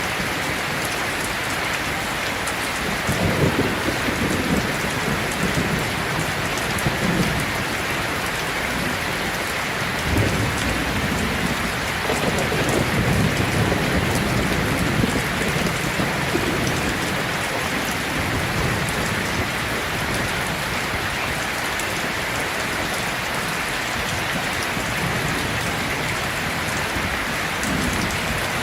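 Heavy rain falling steadily, with rolling thunder rumbling in low swells about three seconds in, about ten seconds in, and again from about twelve to sixteen seconds.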